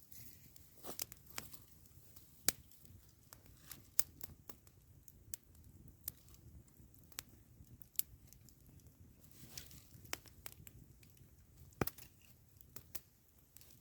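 Campfire crackling: burning wood giving irregular sharp pops and snaps, some much louder than others, over a faint low steady background noise.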